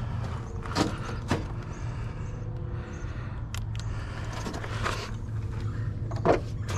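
Vehicle engine idling steadily, with a few sharp knocks and clatters over it.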